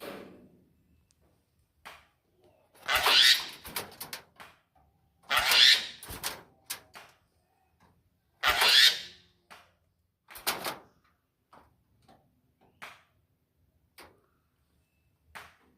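A jalak (Asian starling) giving three loud, harsh, raspy calls, about two and a half to three seconds apart, with short clicks and chirps in between.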